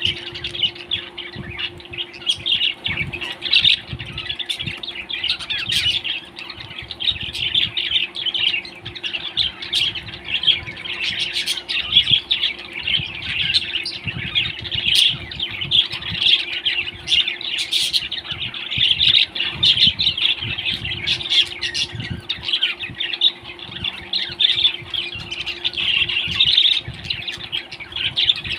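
Parrots chirping and squawking in a continuous chatter, with scattered sharp clicks.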